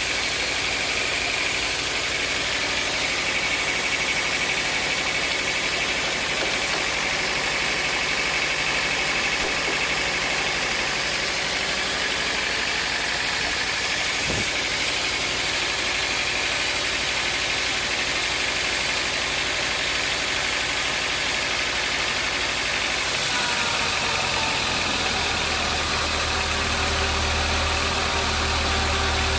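Sawmill machinery running steadily, a motor drone with a higher whine over it. A single knock sounds near the middle, and a deeper hum sets in about three quarters of the way through.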